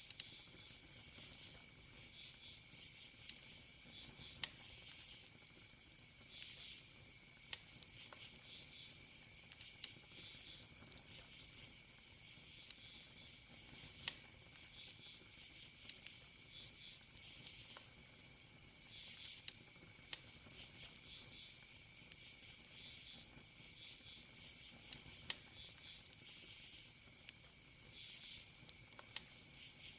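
Campfire crackling: scattered sharp pops and snaps of burning wood, over crickets chirping in pulsed bursts and a steady thin high insect tone.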